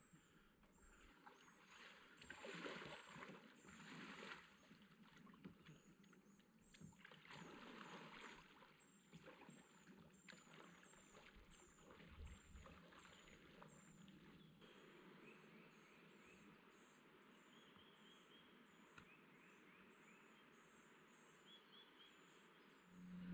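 Faint kayak paddle strokes and water swishing in soft swells, with a steady train of high, quick chirps repeating several times a second.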